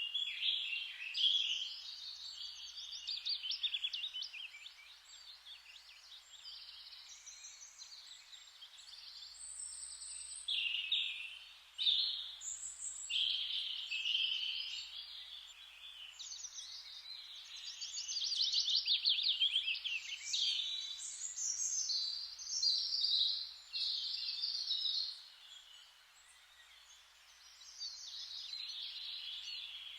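Forest ambience: several small birds singing in overlapping chirps and rapid trills that swell and fade, over a faint steady hiss of rustling leaves.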